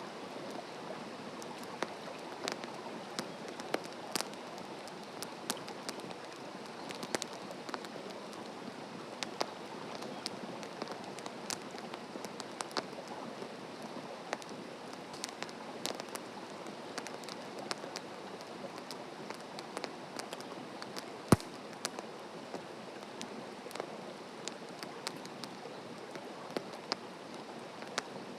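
Wood campfire crackling: a steady hiss dotted with frequent sharp pops and snaps, one louder pop about three-quarters of the way through.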